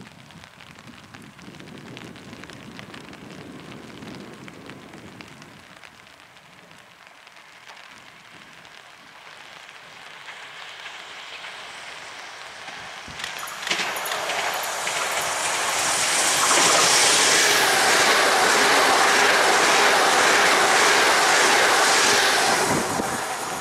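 Light rain falling, then a Pesa Dart electric multiple unit rushes through at speed, its wheels loud on the rails with a rapid clatter. The noise comes in suddenly about halfway through, is loudest for several seconds, and falls away near the end as the train goes past.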